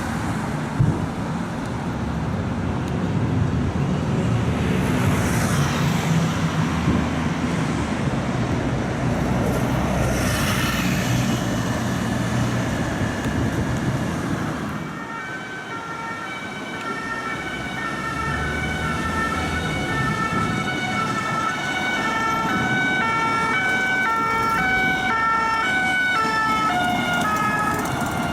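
Road traffic and engine noise, then from about halfway a French two-tone police siren on an unmarked police car, alternating steadily between two pitches.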